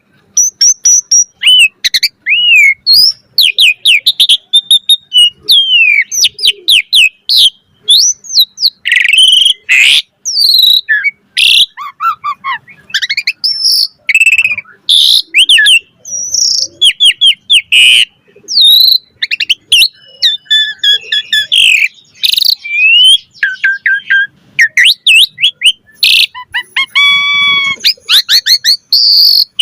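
Asian pied starling (jalak suren) singing a long, rapid, varied song. It strings together short whistles, rising and falling slurred notes, sharp clicks and harsher calls with almost no pauses.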